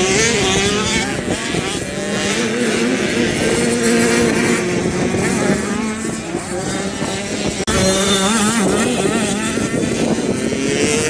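Several dirt bike engines running together, their pitch rising and falling as the riders work the throttle, with a sudden break about two thirds of the way through.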